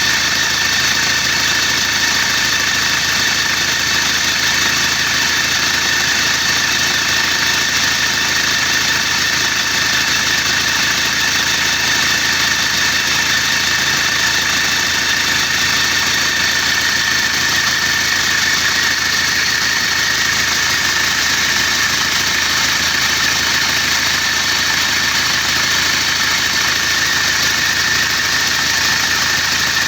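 Isuzu Panther engine idling steadily, running with a newly fitted exhaust gasket so the exhaust can be checked for leaks.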